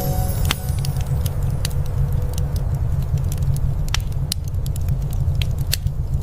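Wood fire crackling, with irregular sharp pops over a steady low rumble. A faint held music note fades out in the first couple of seconds.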